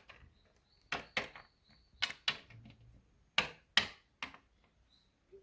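Light taps and clicks of small plastic toy figures being moved on a hard surface, mostly in close pairs with short pauses between.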